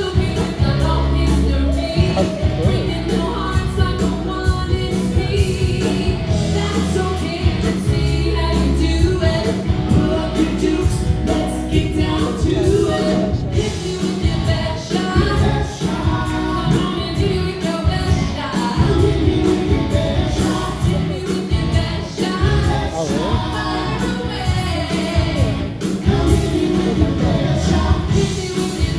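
Live band playing classic rock with singing, over a steady drum beat and bass.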